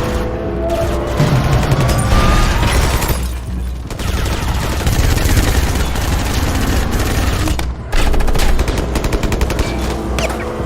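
Movie action sound mix: heavy, rapid automatic gunfire with impacts over a low rumble, breaking off briefly twice, with a music score underneath.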